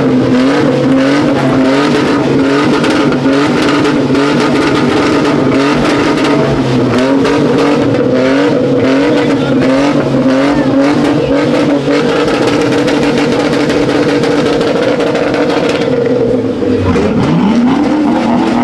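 Car engine held at high revs, its pitch wobbling up and down about twice a second. Near the end the revs drop briefly, then climb sharply again.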